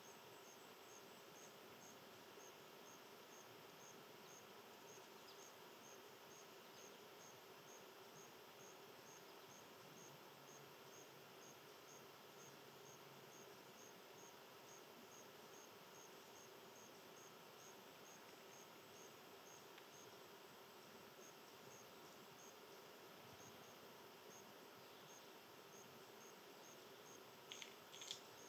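Faint insect chirping in a steady, even rhythm of about two to three chirps a second. A couple of brief, sharp, higher sounds come near the end.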